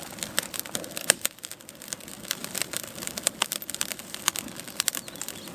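Small twig-and-stick campfire crackling, with many irregular sharp pops, as the kindling catches and burns.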